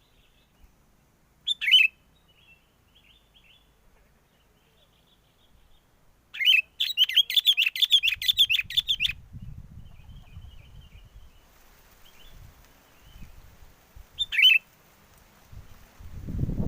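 Sooty-headed bulbuls calling: a short burst of calls, then a long rapid chattering run of about three seconds, then another short burst near the end, with fainter calls between. Wind rumbles on the microphone through the second half.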